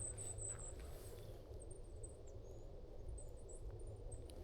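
Faint outdoor ambience: a steady low rumble of wind with scattered short, very high-pitched bird chirps.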